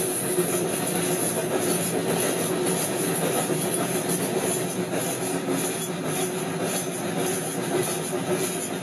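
Railroad cars rolling along the track: a steady rumble and rail noise with a faint high wheel squeal over it.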